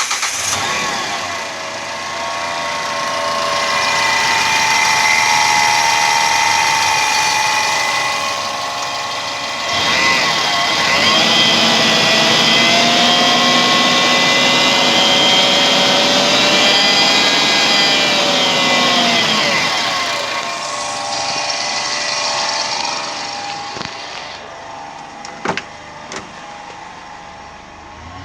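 Daihatsu Feroza 1.6-litre fuel-injected four-cylinder engine running just after starting, revved up and held at raised revs twice, the second time longer and louder, then dropping back toward idle about two-thirds of the way through. Near the end there are a couple of sharp clicks. This is an engine that tested good.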